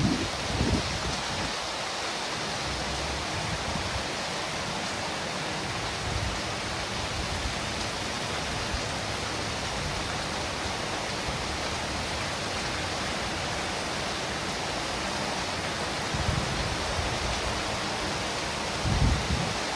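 Steady hiss of falling rain. There are brief low rumbles just under a second in and twice near the end.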